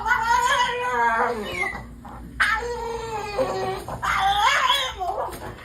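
A dog vocalizing in three long, wavering calls, each about a second and a half, its pitch sliding up and down.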